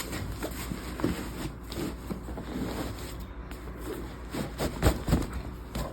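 Handling noise from a canvas bag and a fabric organizer insert being pushed and worked into it: irregular rustling and scraping, with a few sharp knocks about five seconds in.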